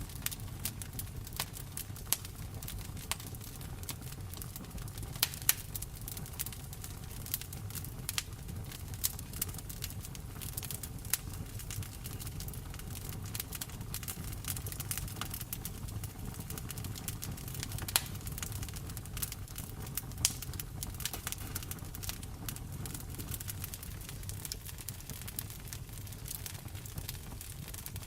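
Wood fire crackling in a fireplace: irregular sharp snaps and pops over a steady low rumble, with rain falling.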